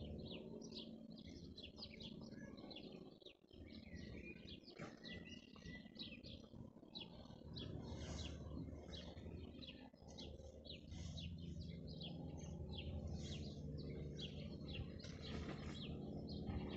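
Small birds chirping and twittering, a steady run of short high calls, over a faint low background rumble.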